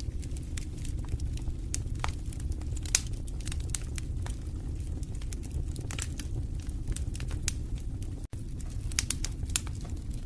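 Wood fire in a fireplace crackling: irregular sharp pops and snaps over a steady low rumble of the flames. The sound cuts out for an instant about eight seconds in.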